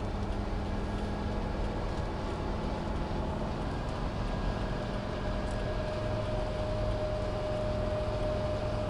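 Steady engine and road noise inside the cabin of a 1984 Mercedes 300D turbo-diesel at highway speed, its five-cylinder diesel pulling as the cruise control accelerates the car with no foot on the pedal. A steady higher tone joins about six seconds in.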